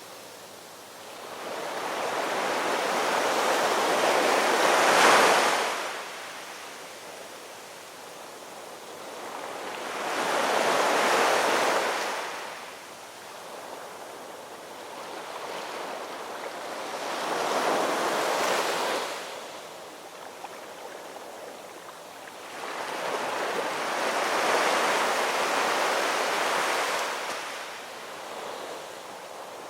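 Ocean surf: waves break in a slow rhythm, four swells rising and falling about every six to seven seconds, the first one the loudest.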